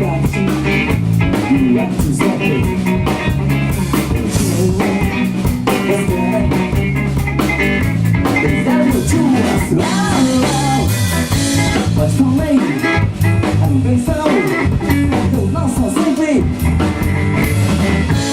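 Live band playing a funk number: drum kit, bass and electric guitar with a steady groove.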